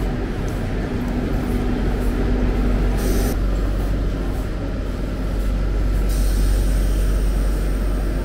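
TGV inOui high-speed train at the platform, its equipment running with a steady low hum. A short burst of hiss comes about three seconds in, and a thin high hiss starts about six seconds in.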